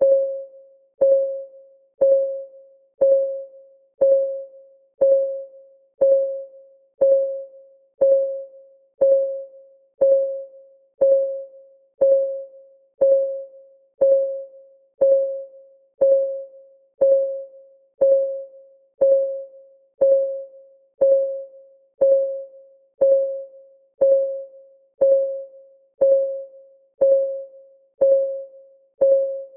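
Clock ticking sound effect of a countdown timer: one tick a second, evenly spaced, each a short pitched tick that rings briefly and fades.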